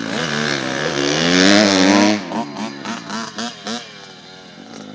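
Pit bike engine revving hard close by, loudest about a second and a half in, then falling away sharply, followed by four quick throttle blips.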